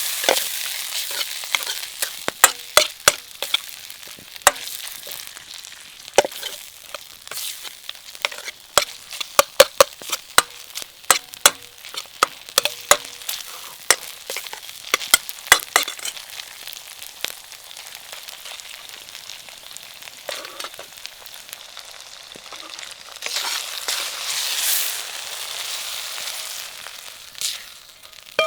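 Food sizzling in a hot pan over a bonfire, stirred with a metal utensil that clacks against the pan in quick runs of sharp strikes through the first half. Near the end the sizzle swells louder for a few seconds.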